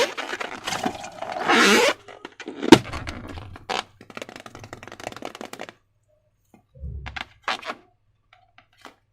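Slime-making handling noises: scraping and rustling for the first two seconds, then a sharp crack, the loudest sound, followed by scattered crackling clicks and a dull thud.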